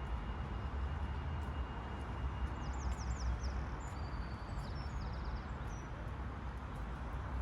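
Steady outdoor background rumble, with a small bird chirping a quick series of short high notes between about two and five seconds in.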